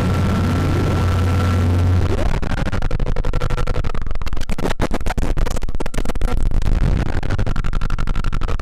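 Soma Lyra-8 analogue synthesizer making harsh noise: a loud low drone with a thin high tone above it for about two seconds, then a dense, rapid crackling stutter for the rest.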